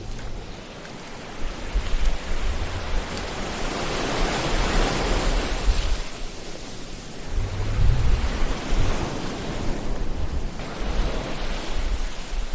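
Ocean waves breaking and washing up on a shore. The surf swells to a peak about four seconds in and builds again in the second half, with a low rumble underneath.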